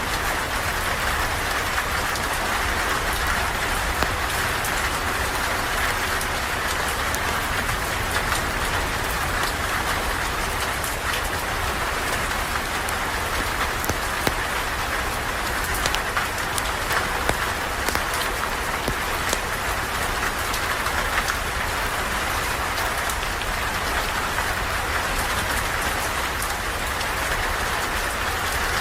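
Steady rain falling under a porch, with scattered sharp crackles from a campfire.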